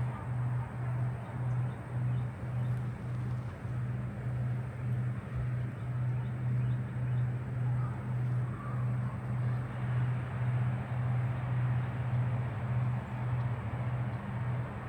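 A low mechanical hum that swells and fades in a steady pulse about twice a second.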